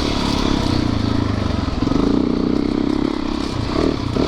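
Yamaha YZ450FX dirt bike's 450 cc single-cylinder four-stroke engine running while being ridden, its pitch shifting a little as the throttle changes.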